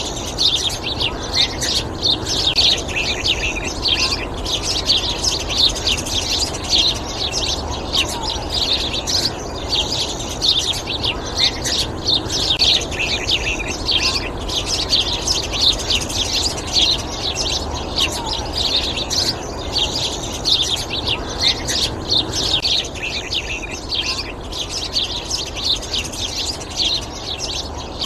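Yellowhammers chirping and twittering without pause in a dense run of short, high notes.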